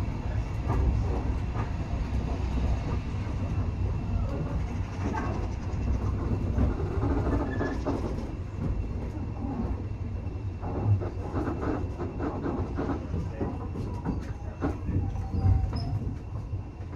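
Running noise of a railway carriage heard from inside: a steady low rumble with irregular clicks and knocks of the wheels over the track.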